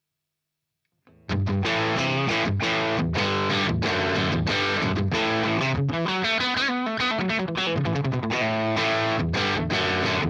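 Silence, then about a second in a Les Paul-type electric guitar starts playing through a Fender Blues Junior IV tube amp driven into distortion. It plays a fast run of notes, with a wavering, bent note around the middle. The amp is captured direct through a reactive load with a 4x12 Vintage 30 cabinet impulse response, so there is no room sound.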